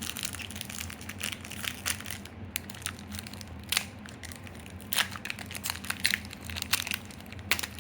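Crinkling and crackling of foil booster-pack wrappers and plastic packaging being handled and opened, with a few louder snaps.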